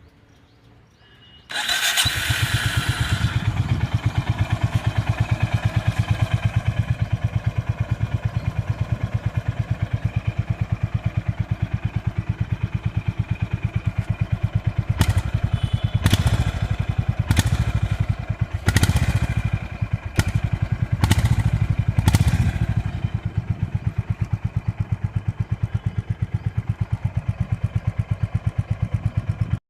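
Honda CB350RS's single-cylinder engine starting about a second and a half in, then idling with an even, rapid beat from the exhaust. Around the middle it is revved in about seven quick throttle blips, then settles back to idle.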